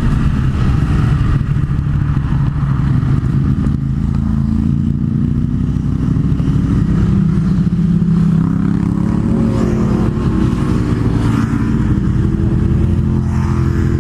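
MV Agusta Turismo Veloce 800's three-cylinder engine running on the road under way, its note rising as it accelerates in the second half.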